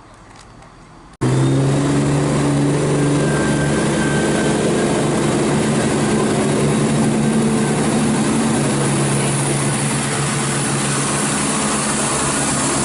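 Class 170 Turbostar diesel multiple unit's underfloor diesel engines running steadily, a loud even hum with a few steady tones. It cuts in suddenly about a second in, after a short stretch of faint background.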